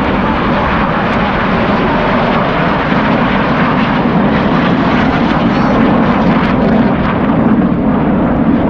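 Red Arrows' BAE Hawk T1 jets flying over, a loud steady jet rush that swells a little late on.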